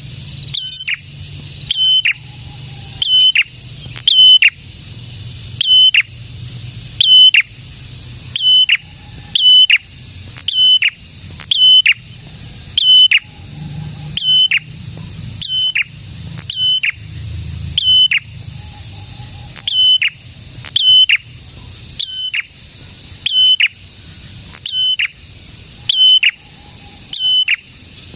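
A prenjak, a small warbler-type songbird, singing a steady run of loud, sharp high notes. Each note holds briefly, then drops sharply in pitch. The notes come about once a second, often in quick pairs.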